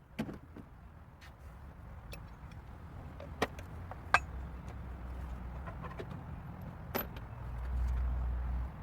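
A few sharp metallic clicks and clinks from tools or parts being handled, over a low rumble that swells near the end.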